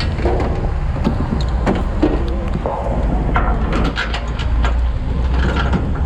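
A heavy truck engine runs steadily at a low rumble, with scattered sharp clicks and knocks over it.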